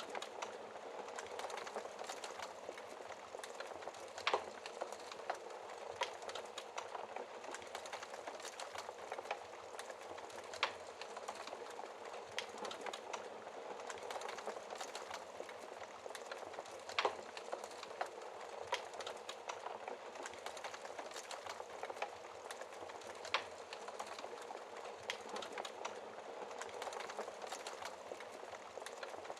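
Wood fire in a fireplace crackling: a steady hiss with many small crackles and a sharp pop every few seconds.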